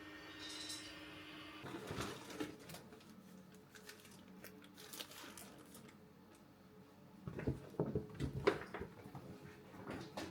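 A steady hum that stops about two seconds in, followed by scattered light knocks and clicks of things being handled, with a cluster of louder knocks near the end.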